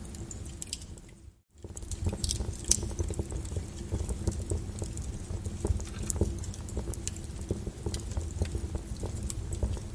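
Wood fire crackling with frequent sharp pops over a steady rain-like hiss and a low rumble. The sound fades out briefly about a second and a half in, then resumes.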